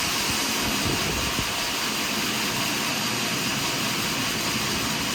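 Portable sawmill running steadily as it saws through a large pine log, a constant even noise.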